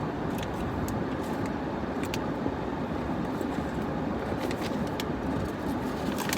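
Steady road and engine noise inside a car's cabin as it drives, an even rumble with a few faint clicks.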